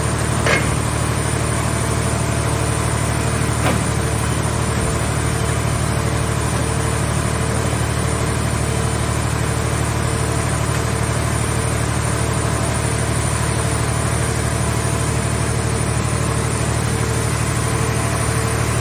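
Mobile car-shell baler's engine running steadily, with two sharp metallic knocks early on, one about half a second in and another about three and a half seconds in.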